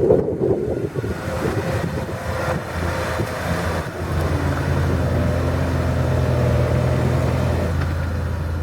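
Off-road 4x4 truck engine running, uneven for the first few seconds, then holding a steady note from about four seconds in.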